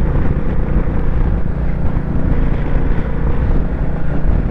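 Royal Enfield Bullet 350's single-cylinder engine running steadily while riding, with wind on the microphone.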